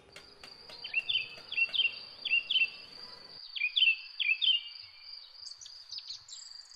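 Outdoor nature ambience: an insect's steady high-pitched whine with a bird calling over it, a short chirping call repeated about seven times, mostly in pairs, during the first four and a half seconds.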